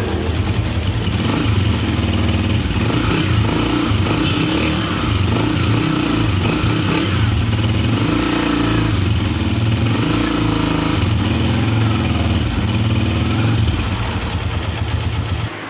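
Honda CG125's single-cylinder engine running with a new original clutch garari fitted, run so its clutch-side noise can be checked. The engine speed rises and falls gently a few times, and the sound drops away sharply just before the end.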